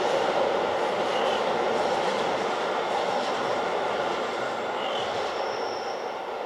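Rhaetian Railway passenger train, hauled by a Ge 4/4 III electric locomotive, rolling away into the distance: a steady rumble that slowly fades, with a few faint, short high squeals.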